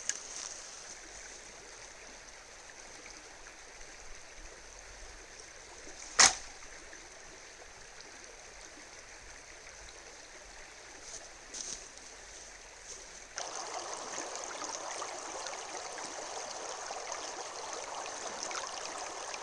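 River water rushing steadily, with one sharp knock about six seconds in. About thirteen seconds in the water sound jumps louder and stays there.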